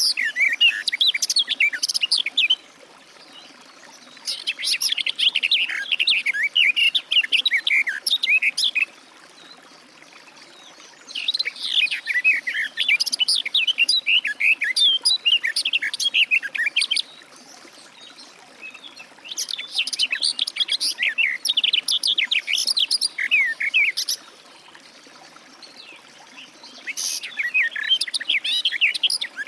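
Garden warbler singing: long, fast warbling phrases of several seconds each, separated by short pauses of about two seconds, about five phrases in all.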